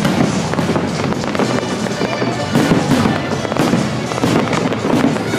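Aerial firework shells bursting in a dense barrage, many bangs following each other in quick succession.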